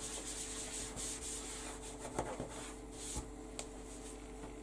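Soft, faint rubbing of something being wiped clean by hand, with a few light taps about two and three seconds in.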